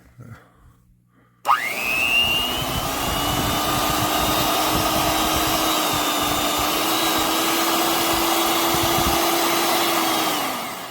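Electric hand mixer switched on: its motor spins up with a rising whine about a second and a half in, runs steadily, then winds down near the end as it is switched off.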